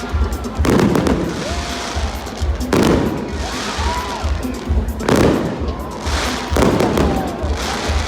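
Fireworks show: four loud aerial bursts about two seconds apart, each trailing off in a hissing crackle. Under them plays music with a steady bass beat.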